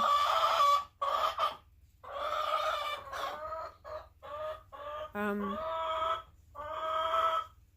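Chickens clucking: a string of drawn-out pitched calls, one after another with short gaps, the longest lasting nearly a second.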